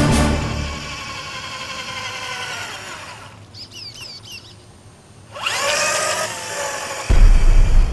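Electric motor of an RC scale truck whining. The whine fades away, then climbs steeply in pitch again about five and a half seconds in as the motor spools up. A loud low rumble starts suddenly about seven seconds in.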